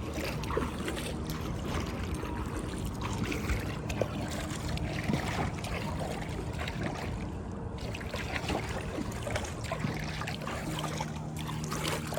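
Kayak paddling on a lake: the paddle blades dip and pull through the water, with irregular small splashes and water dripping off the blades.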